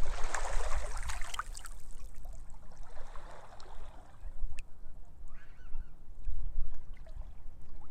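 Sea waves washing onto a beach, two surges of hiss in quick succession, over a steady low rumble of wind buffeting the microphone.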